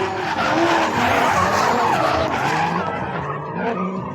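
Drift car's engine revving hard, its pitch rising and falling, over the screech of tyres sliding and squealing through a drift. Loudest in the first half, easing slightly near the end.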